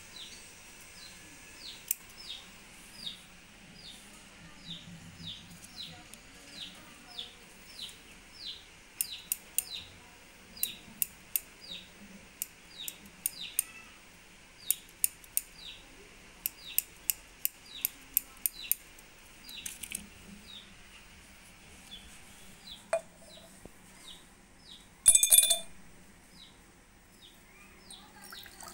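A small bird chirping over and over, a short falling chirp about twice a second. Pairs of light scissor snips come in the middle, and near the end there is one sharp, ringing clink of glass.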